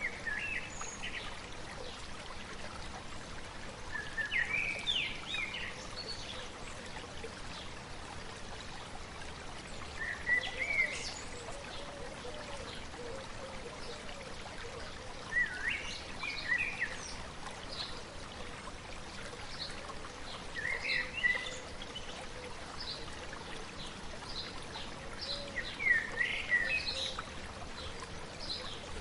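A stream flowing steadily, with a bird singing short chirping phrases about every five seconds.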